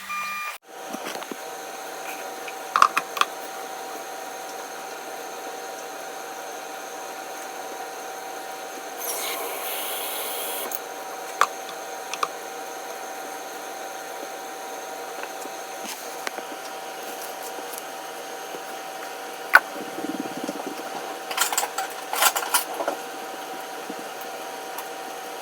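Steady hum of a running kitchen appliance, with a few scattered clicks and knocks of handling.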